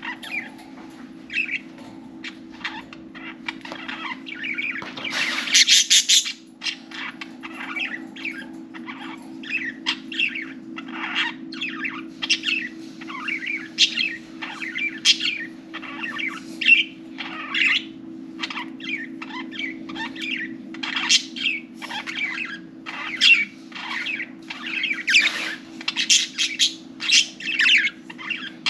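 Several budgerigars chirping and chattering in quick, short calls, with a louder harsh burst about five seconds in. A steady low hum runs underneath.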